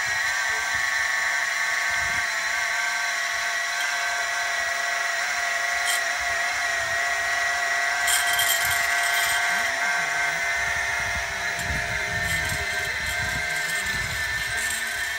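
Stepper motors of a small CNC machine built from optical disc drive mechanisms running, giving a steady whine of several pitches. Short, high scratchy bursts come in a little before the middle of the sound.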